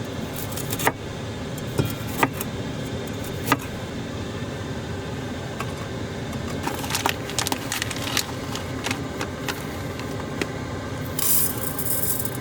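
Small hard items clinking, tapping and knocking as containers and kitchenware are handled, over a steady background hiss. A short burst of hiss comes about 11 seconds in.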